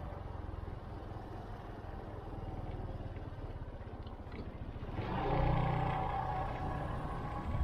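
Motorcycle engine running while riding, with wind noise on the microphone. The vehicle sound swells louder about five seconds in.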